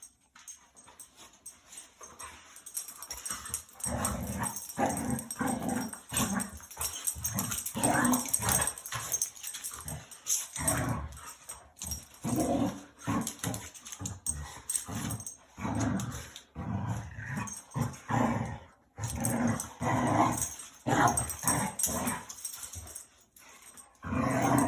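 Dogs play-fighting with each other, growling and barking in a stream of short, irregular bursts that start about four seconds in.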